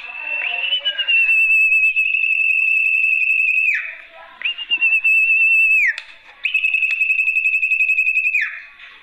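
Sertu (golden-bellied gerygone) lure call: three long, high whistled notes, each held at one pitch with a fine trill and ending in a quick downward slide, repeated about every two to three seconds.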